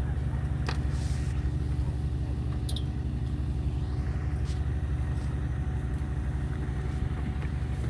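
Fishing boat's engine running with a steady low drone, with a couple of brief faint clicks.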